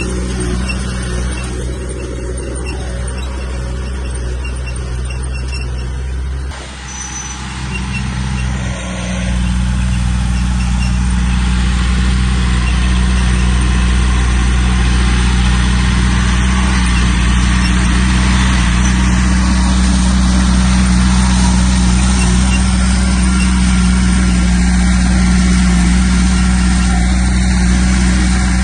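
Diesel engine of heavy earthmoving machinery running steadily. It drops briefly about six and a half seconds in, then runs louder and steady from about nine seconds on.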